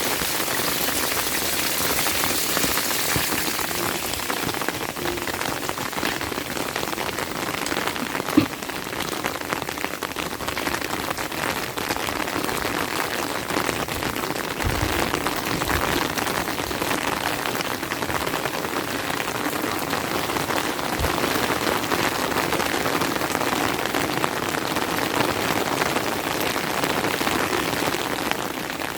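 Rain falling steadily, a dense patter of drops. A single sharp click comes about eight seconds in, and a few dull low thumps follow around the middle.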